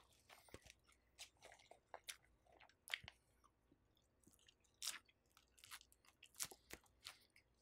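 A person chewing a mouthful of salad close to a microphone: faint, irregular crunches and wet mouth clicks, a few a little louder than the rest.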